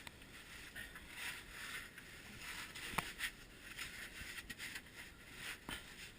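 Clothing rustling and scraping against rock as a person squeezes up through a narrow cave crevice, with a few sharp knocks, the loudest about halfway through.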